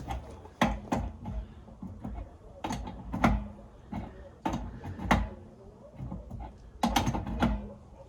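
Irregular sharp knocks and clinks of hand tools and metal pipe fittings being handled, about a dozen in all, several leaving a short metallic ring; the loudest come about three seconds in and near the end.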